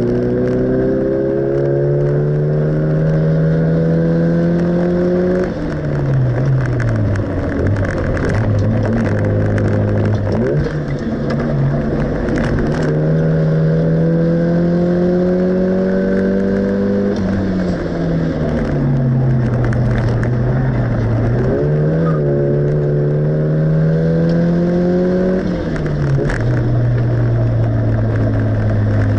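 Classic car's engine heard from inside the cabin at racing speed. The engine note climbs steadily under acceleration, then falls away as the car slows, three times over, with a few sharp clicks and a steadier note near the end.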